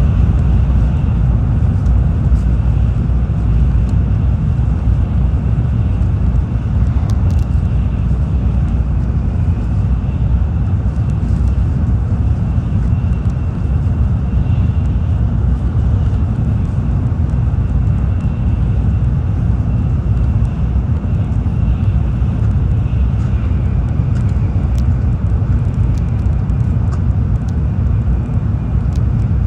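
Tokaido Shinkansen train running, heard from inside the passenger cabin: a steady heavy rumble with a faint high whine over it and occasional light ticks.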